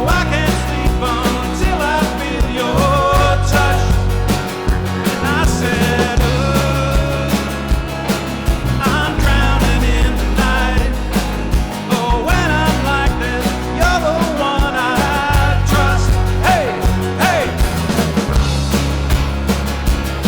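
Live rock band playing a song, with a sung lead vocal over a steady drum beat and bass.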